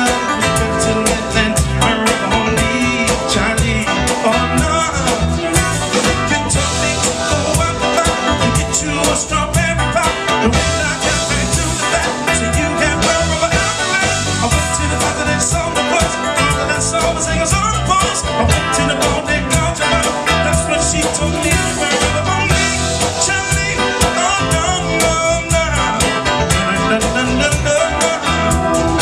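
Live soul band playing, with drums, electric guitar and singing, picked up on a small camcorder's built-in microphone.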